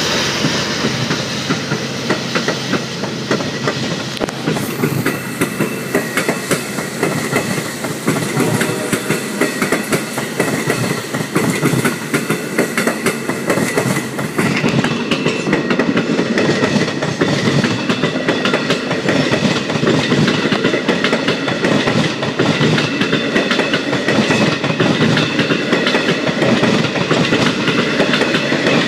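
Long Island Rail Road bilevel passenger coaches rolling past, their wheels clattering steadily over the rail joints in a continuous clickety-clack.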